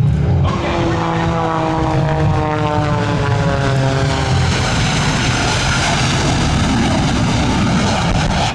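Propeller-driven aerobatic airplane passing at full power, its engine pitch falling steadily as it goes by, then a loud rushing engine noise that cuts off suddenly at the end.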